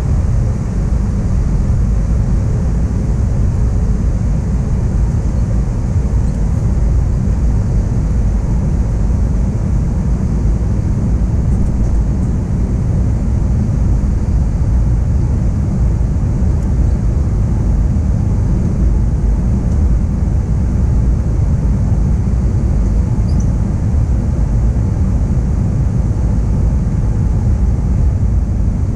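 Cabin noise inside an Airbus A321 airliner in flight: a steady, loud, low rumble of airflow and engines that holds constant throughout.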